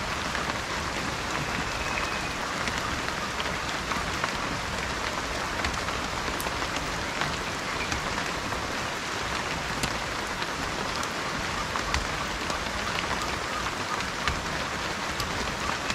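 Steady rain falling, an even hiss with many small individual drop hits scattered through it. A brief faint high note sounds about two seconds in.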